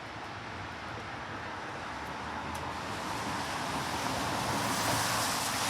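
Road traffic: a rushing noise of a passing vehicle that grows steadily louder.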